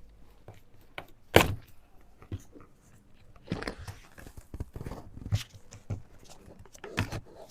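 Plastic clicks and knocks from a mini fan's casing being pried open and handled, with one sharp knock about a second and a half in and a run of smaller knocks and rattles a few seconds later.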